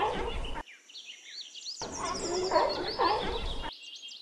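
Fur seal giving rough, guttural calls in two stretches, the first ending about half a second in and the second lasting from about two seconds in to nearly four. Small birds chirp high in the background, plainest in the gaps.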